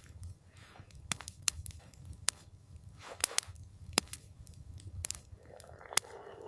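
Campfire crackling: irregular sharp pops and snaps, about ten in six seconds, over a low steady rumble.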